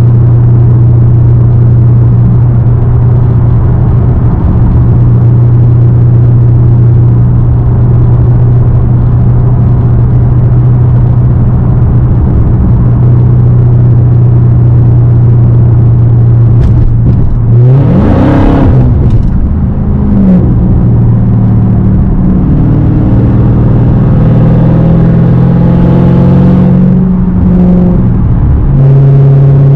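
Straight-piped supercharged 6.2-litre Hemi V8 of a Dodge Hellcat running at steady revs while driving. About eighteen seconds in, the revs climb sharply and drop back, and after that the engine note moves between a few steady pitches.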